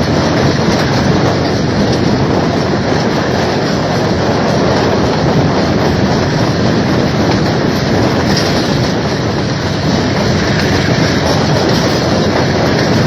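A train running along the rails: steady, loud wheel and track noise that continues without a break.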